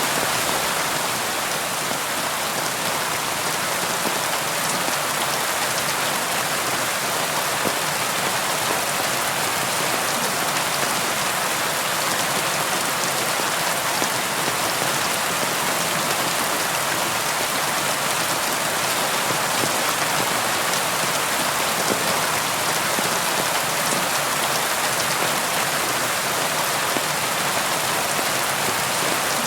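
Steady rain falling, a constant hiss of rainfall with fine patter of drops on a surface, unchanging in level throughout.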